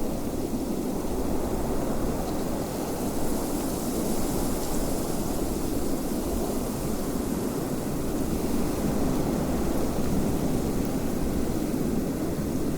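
Steady wind: a low rushing noise with a fainter hiss above it that swells slightly a few seconds in.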